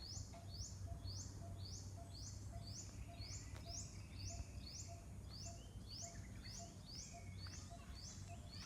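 A small creature's high chirping call repeating at an even pace, about two short chirps a second, over a faint low hum.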